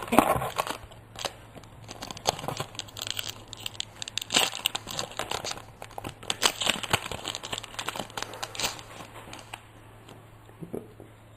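Pokémon TCG booster pack wrapper being torn open and crinkled in the hands: irregular crackling and rustling, loudest about four and six and a half seconds in.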